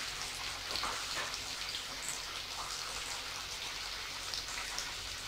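Croquettes shallow-frying in hot oil in a pan: a steady sizzle scattered with small crackles and pops.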